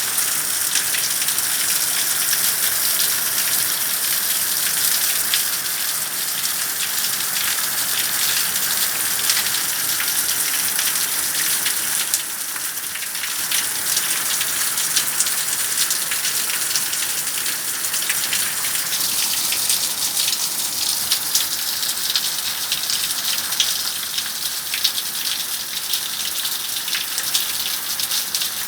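Rain gutter overflowing in steady rain: water spilling over the gutter's edge and splashing down in a dense, unbroken patter of drops. The overflow comes from a clogged downpipe bend.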